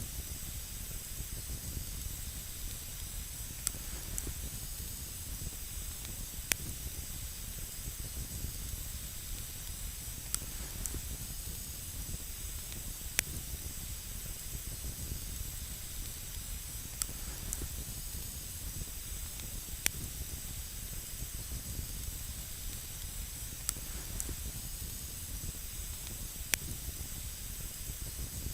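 Campfire burning on snow: a steady hiss with sharp single crackles and pops every few seconds.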